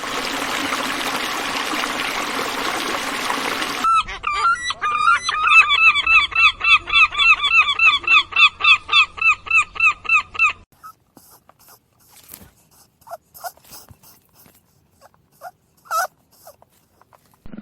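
An animal calling a rapid series of short, repeated pitched calls, about three a second, after a few seconds of steady hissing noise. The calls stop suddenly about two-thirds of the way in, leaving scattered faint chirps and clicks.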